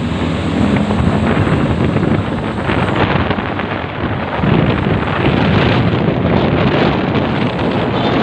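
Heavy truck engine running hard at speed, a low drone that swells twice, under loud wind buffeting on the microphone.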